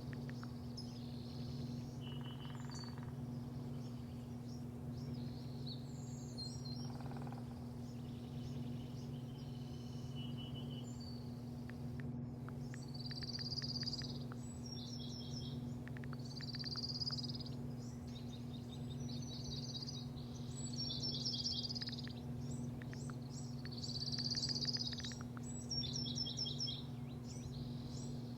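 Small birds chirping and trilling in short repeated phrases, busier in the second half, over a steady low machine hum.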